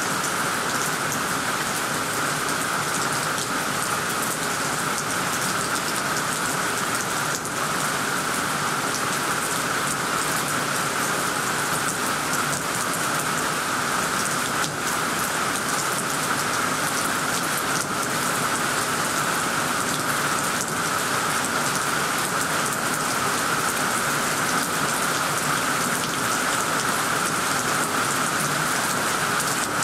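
Heavy rain pouring steadily onto tree leaves and a tiled roof: a dense, even hiss, with scattered sharper ticks of nearby drops striking.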